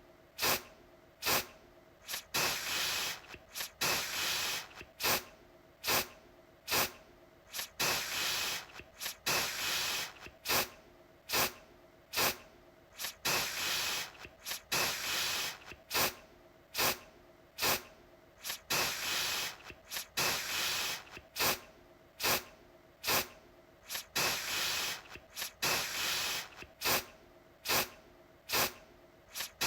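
Aerosol deodorant can sprayed in short repeated bursts: each an abrupt hiss that fades within about a second, roughly one burst every second and a half.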